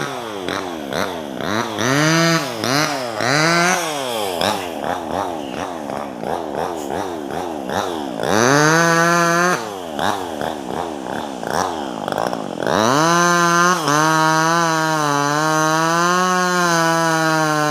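Two-stroke top-handle chainsaw blipped up and down over and over, its engine note rising and falling several times a second. It is then held at high revs for a few seconds at a time, with a slight waver in pitch, once briefly and once for about four seconds near the end.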